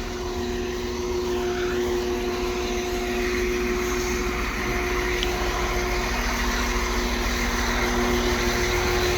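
A vehicle engine running with a steady droning hum and a few held tones, growing slightly louder.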